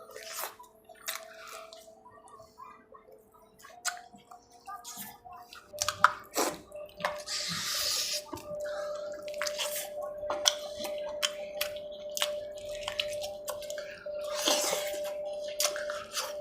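Scattered wet clicks and smacks of close-up eating, over soft background music with a few held notes.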